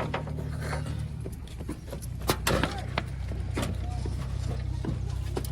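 Heavy diesel engine running steadily at a low pitch, with several sharp knocks and clanks from about two seconds in.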